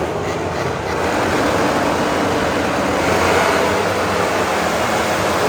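Many MotoGP racing motorcycle engines running together at high revs, the overall sound growing louder about a second in.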